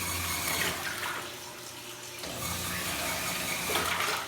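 LT06 top-load washing machine agitating, its motor humming in strokes of about a second with short pauses between them, over the slosh and churn of water in the drum.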